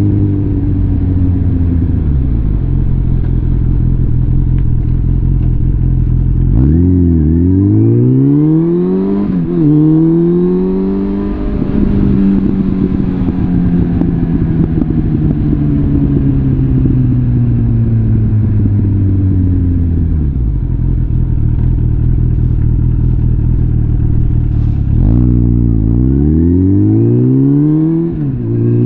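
Suzuki GSF650 Bandit's inline-four engine through a full Arrow exhaust system, ridden hard: the pitch climbs fast through two quick upshifts about seven seconds in, then falls slowly and steadily for about ten seconds as the bike slows. Near the end it accelerates through quick upshifts again.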